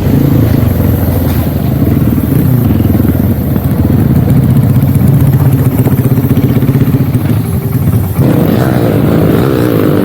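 Dirt bike engine running under way on a trail, loud and close, its pitch wavering up and down with the throttle, with a brief dip about eight seconds in.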